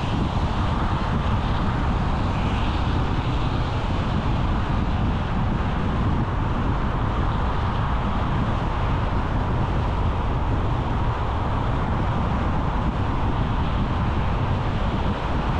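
Car driving at a steady speed: continuous road and tyre noise over a low rumble, with no change in level.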